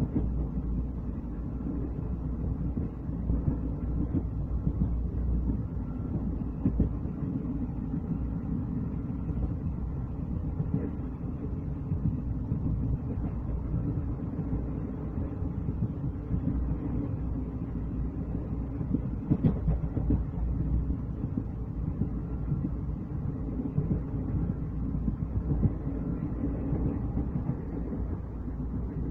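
Train running along the track, heard from on board: a steady rumble of wheels on rails with scattered clicks over the rail joints, the sharpest about two-thirds of the way through.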